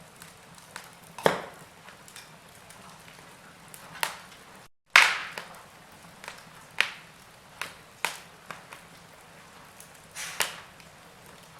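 Wood fire in a fireplace crackling, with irregular sharp pops over a low hiss. The loudest pop comes about five seconds in, right after a brief break in the sound.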